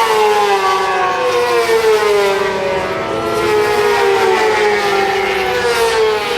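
Racing motorcycle engine running hard, its pitch sliding down and climbing back up twice as it slows and accelerates again.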